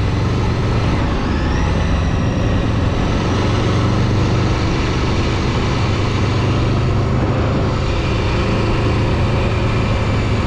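A vehicle engine running steadily, a constant low hum with road or wind noise over it.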